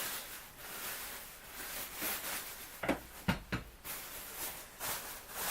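Packing material rustling as an item is unpacked by hand, with a few sharp knocks about three seconds in.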